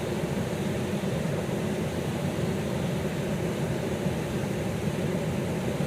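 Steady rush of flowing creek water, an even low rumbling noise with no breaks.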